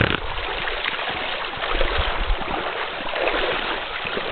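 Running water of a small stream, a steady rush.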